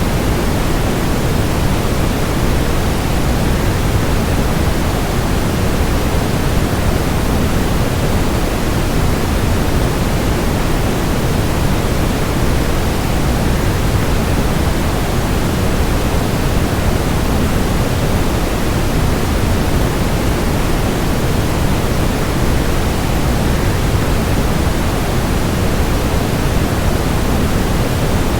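Steady, even rushing noise of a waterfall blended with added white noise, heaviest in the low end, with no changes.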